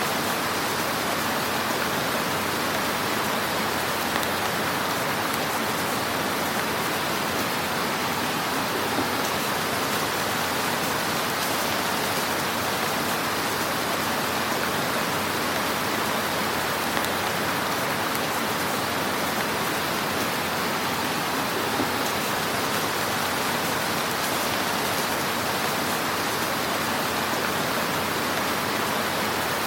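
Wood fire crackling in a fireplace: a steady dense hiss of small crackles, with a few slightly louder pops now and then.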